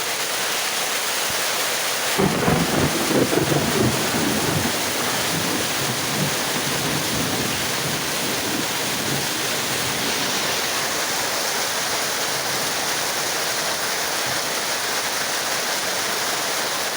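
Steady heavy rain, with a rumble of thunder starting about two seconds in and dying away over the next few seconds.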